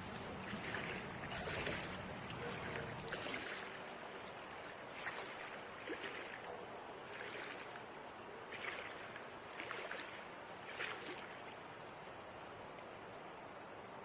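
Floodwater splashing and lapping: soft, irregular swishes about every second over a steady wash of noise, fading out near the end.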